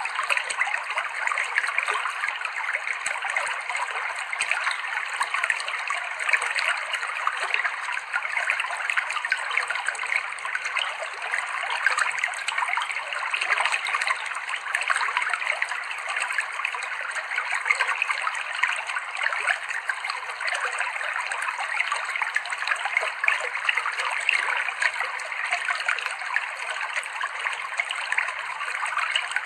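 Clear, shallow river water flowing and trickling over rocks, a steady babbling stream.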